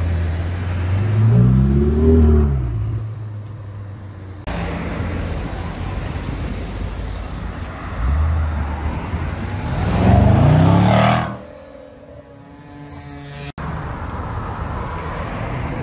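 Sports car engines revving hard as cars accelerate past on a street: a rising rev about a second in and a louder one about ten seconds in that cuts off suddenly, with traffic noise between.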